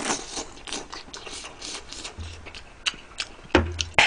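Close-up wet chewing and lip-smacking of spicy rice cakes (tteokbokki), a quick run of small mouth clicks, with a couple of sharper knocks near the end.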